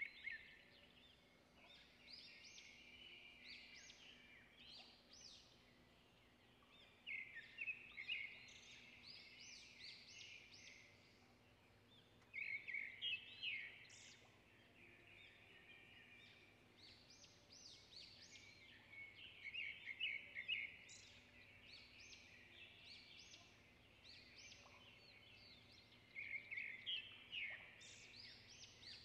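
Faint birdsong: phrases of quick high chirps and trills, with louder bursts about every six to seven seconds.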